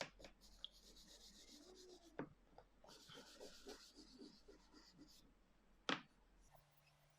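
Faint scratchy scrubbing of a small brush on a Lansky sharpening stone, cleaning the gunk out of it, in two short stretches with a sharp click near the end.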